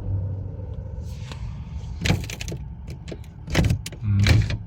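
Inside a stationary car: a steady low hum from the idling engine, broken by three short knocks or clunks, one about two seconds in and two close together near the end.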